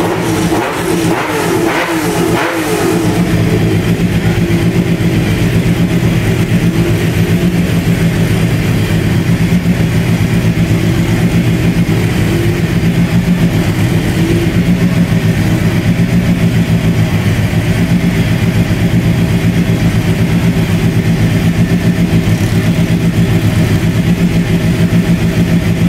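Group B rally car engine warming up: a few quick throttle blips in the first three seconds, then a steady, loud idle with an even, lumpy pulse.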